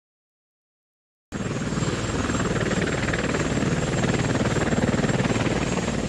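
Helicopter running, its rotor beating fast and evenly over the engines' noise; it cuts in abruptly after about a second of silence. The machine is the VM-4 Dzhmil, a light helicopter with two piston engines.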